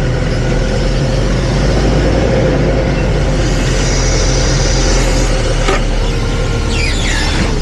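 Hyster H100FT forklift's engine running steadily, with a brief high whine about four seconds in, a click, and a short falling squeal near the end.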